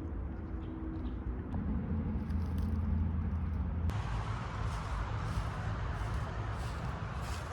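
A car's steady low rumble. About four seconds in there is a sharp click, and a louder hiss sets in after it.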